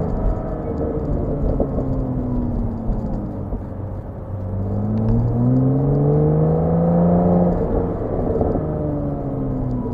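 Porsche 987 Boxster's flat-six engine under way: the note sinks over the first few seconds, then climbs steadily under acceleration for about four seconds before dropping sharply about eight seconds in and holding steady.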